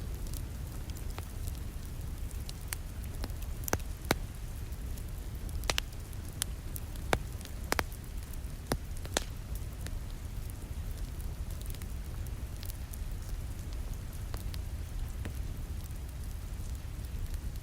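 Wood fire crackling, with scattered sharp pops that come thickest in the first half, over the steady patter of rain on a window.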